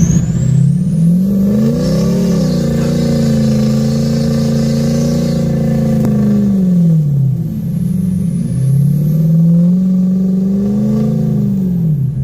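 Ford 6.0-litre Powerstroke V8 turbo-diesel revving: it climbs and holds high for about five seconds, drops back to idle, then revs up again for a few seconds near the end. The truck is fighting for grip after sliding down a snowy hill.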